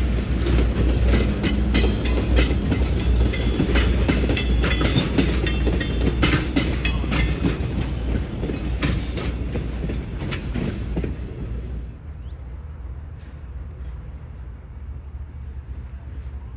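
Southern Railway EMD FP7 diesel locomotive and its train rolling along, a steady low rumble under rapid clicking and clattering of wheels over the rails. About twelve seconds in the sound drops off suddenly, leaving a fainter low rumble with light ticks.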